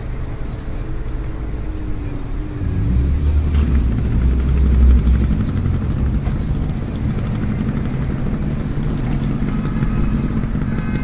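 A small motorcycle-type engine running. Its pitch sinks over the first couple of seconds, then it settles into a low rumble that is loudest around four seconds in and steadies after that.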